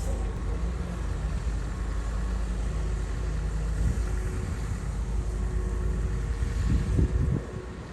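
Komatsu bulldozer's diesel engine running steadily with a low rumble. A few knocks come about seven seconds in, and then the sound drops in level.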